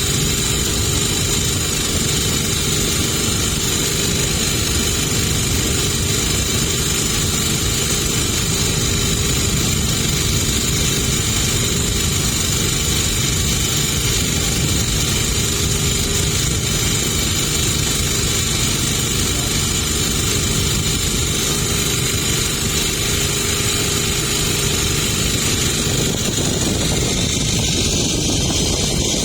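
Boat engine running steadily at a constant speed: a loud, even drone with several steady tones layered on top. The tone shifts slightly near the end.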